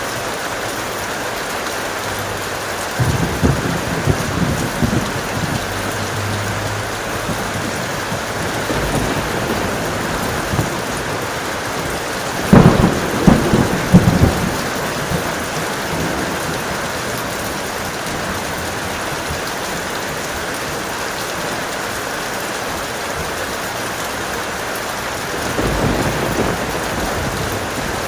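Steady heavy rain with thunder rolling three times, the loudest and sharpest peals about halfway through.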